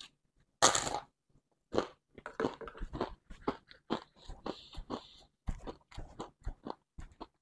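Close-miked eating sounds: a loud crunchy bite into a fried snack about half a second in, then chewing with many short smacks and clicks.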